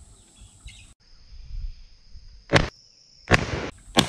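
12-gauge Browning BPS pump shotgun firing: a sharp report about two and a half seconds in, a second report with a longer tail under a second later, and a third near the end.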